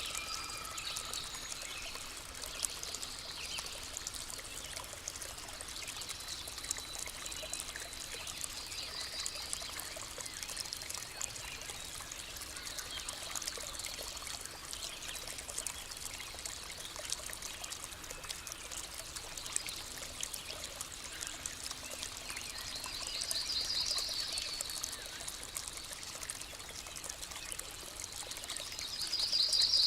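Water trickling and pouring steadily, with birds calling over it. A rapid high trill comes twice, about three-quarters of the way through and again at the end, louder the second time.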